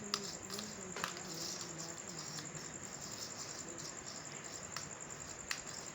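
A cricket trilling steadily, an even high-pitched pulsing, with a few sharp light clicks: one at the start, one about a second in, and one near the end.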